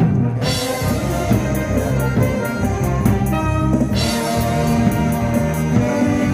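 Live amateur band playing: brass melody over bass and a drum kit with regular cymbal strokes.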